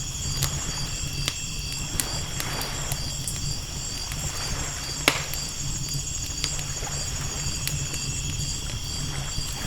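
Campfire crackling with scattered sharp pops, the loudest about five seconds in, over the steady chirping of night insects and the low rumble and wash of ocean waves.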